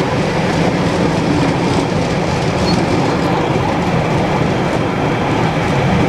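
Diesel freight train hauled by a Class 59 locomotive passing through the station, its engine and wagon wheels giving a loud, steady rumble on the rails.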